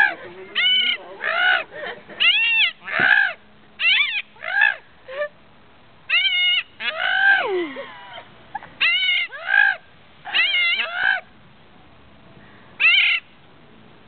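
A black bird calling: a run of about fifteen short calls, each rising and falling in pitch, in quick groups with brief gaps and one longer pause before a last call near the end.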